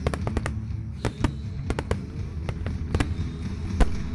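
Fireworks going off in a rapid, irregular string of sharp bangs over a continuous low rumble, with the loudest bang near the end.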